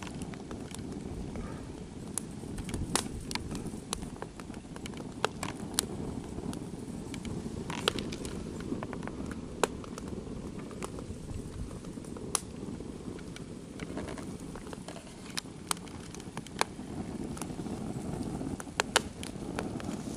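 Swedish-torch log fire ('Indian candle'), birch bark inside, burning from within. A steady low rushing sound runs under frequent sharp crackles and pops.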